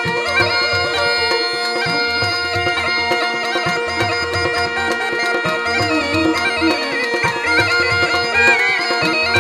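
Murli, the Rajasthani gourd pipe, playing a melody in raga Bhairavi over its own steady drone, with a hand-drum beat underneath.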